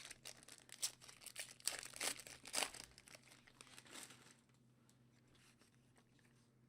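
Wrapper of a 2015 Strata football card pack being torn open and crinkled, in irregular crackling rustles that stop about four seconds in.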